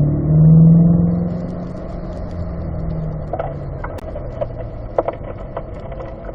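Corvette V8 engine pulling under throttle, swelling to its loudest about a second in, then easing off as the driver lifts, with scattered short clicks later on.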